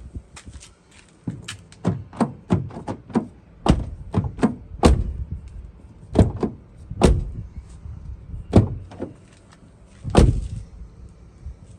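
Fiat 500 door latch and lock mechanism being worked by hand as the newly fitted handle and lock are tried: a string of sharp clicks and heavier metallic clunks, the loudest coming about a second apart.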